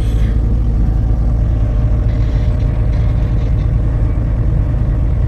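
Steady low rumble of a truck running, with no change in level.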